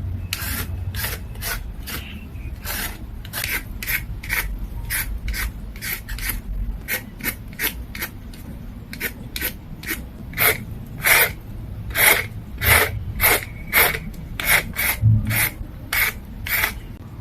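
Large raw carrots being peeled: a blade scrapes down the carrot in quick repeated strokes, about two a second.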